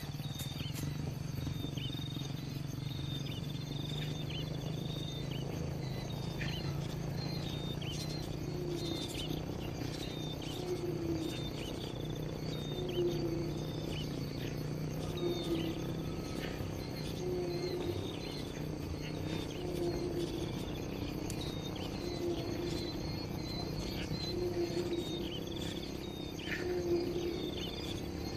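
Natural bird and insect ambience: many short high chirps and quick falling notes over a steady insect chirring, with a low call repeating about every second and a half from about eight seconds in.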